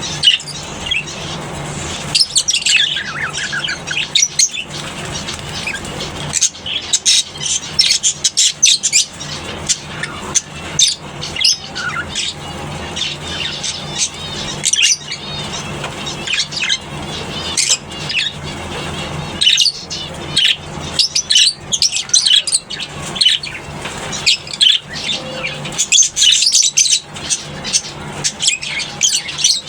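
A colony of lovebirds chattering with rapid, overlapping high-pitched chirps and squawks, with a steady low hum underneath.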